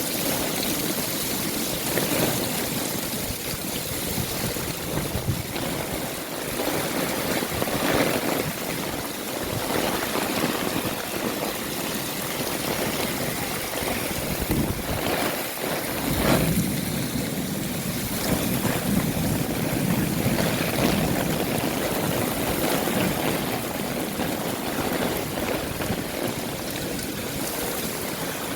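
Heavy rain falling steadily, a dense hiss of water throughout, with a few louder swells, the strongest about sixteen seconds in.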